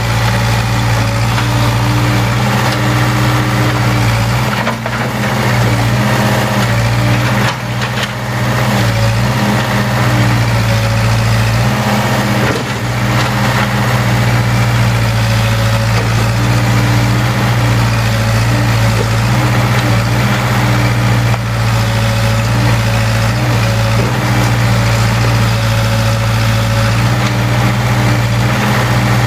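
Case 580K backhoe's diesel engine running steadily, with a few brief dips in loudness.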